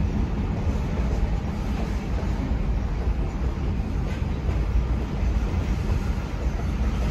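Freight train of flatcars and tank cars rolling through a road crossing: a steady low rumble of wheels on rail.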